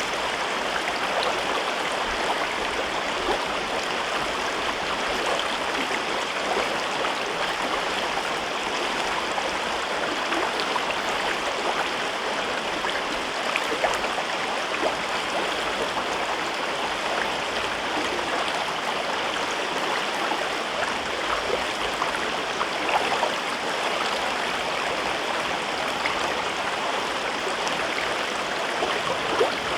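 River water flowing over rocks in a gorge: a steady rushing murmur with small splashes and gurgles.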